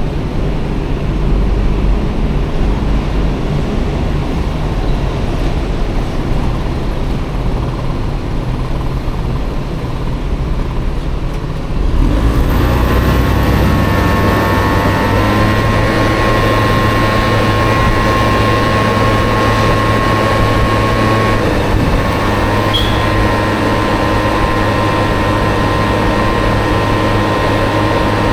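Honda Motocompo scooter with a swapped-in Honda Dio two-stroke engine riding in traffic, with rumbling wind and road noise. About twelve seconds in, the sound changes to a steady engine hum with a clear pitch that holds on.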